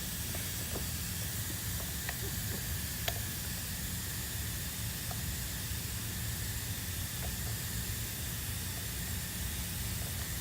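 Steady hiss of compressed shop air flowing through a cylinder leakage tester into an engine cylinder, with a low hum underneath and a few faint clicks.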